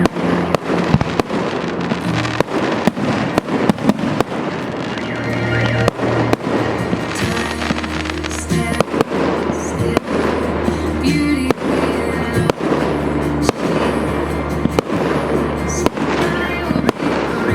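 A multi-shot fireworks battery (a 258-shot display) firing a rapid, irregular string of bangs and bursts, several a second at times. Music with held bass notes plays under it.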